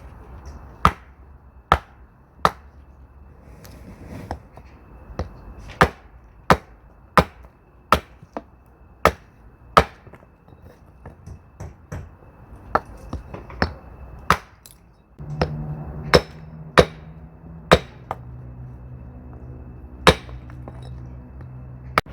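Axe splitting firewood: a long run of sharp, hard strikes on wood, some close together and some with pauses between. About fifteen seconds in, a steady low hum joins the chopping.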